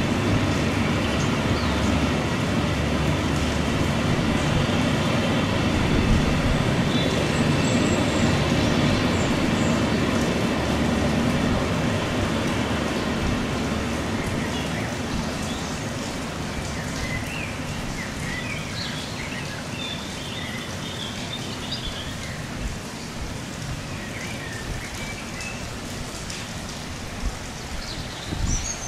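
Loaded timber wagons of a long freight train rolling past, a steady rumble of wheels on rail that slowly fades, with rain falling throughout and birds chirping in the second half.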